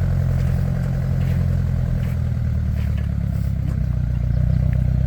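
An engine running steadily with a low, even drone and fast pulsing.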